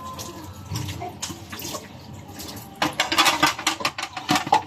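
Water running and splashing, with scattered clicks and knocks; the splashing grows louder and more irregular about three seconds in.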